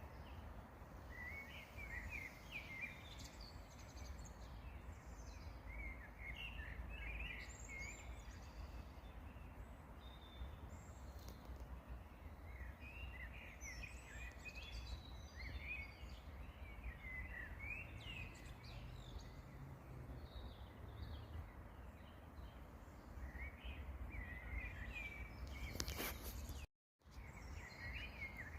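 Songbirds singing short chirping phrases that recur every few seconds, over a steady low rumble. Near the end a sharp click is followed by a moment of silence.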